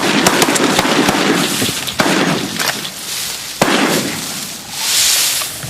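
Shotgun fire during a bird hunt: sharp cracks about two seconds in and again just past halfway, over a loud rushing noise.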